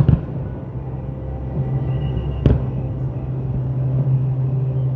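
Two aerial firework shells bursting, one at the very start and one about halfway through, each a sharp bang with a short echo. A steady low hum runs under them.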